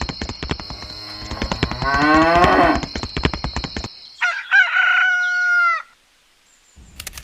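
A cow mooing, one low call that rises in pitch about two seconds in, over a fast clicking rattle. Then shorter, higher-pitched animal calls follow, about four to six seconds in.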